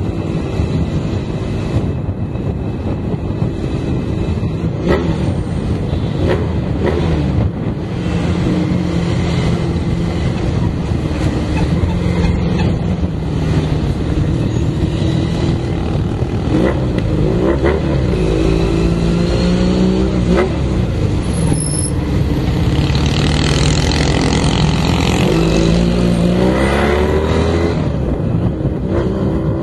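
Cafe racer motorcycle engine heard from the bike, accelerating through traffic: its note climbs in pitch, drops back at each gear change and climbs again several times.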